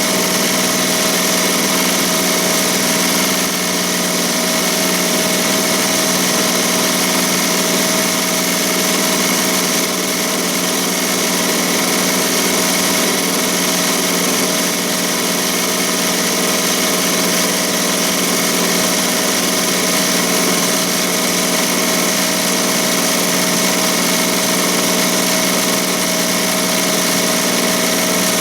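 ZSK Sprint 10-needle commercial embroidery machine stitching at full speed: a steady, unbroken mechanical hum with a constant whine.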